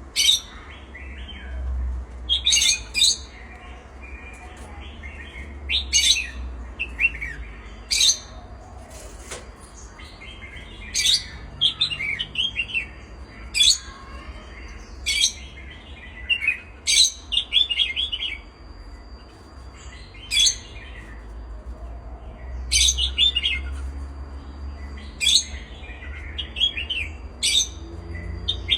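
Pet birds calling in short, sharp, high chirps every second or two, some followed by a quick trailing chatter.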